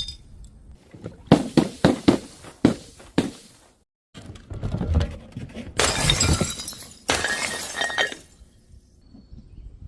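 Glass bottles being smashed and crushed: a quick run of sharp cracks and crunches, then after a brief silence a longer stretch of shattering and grinding crunches.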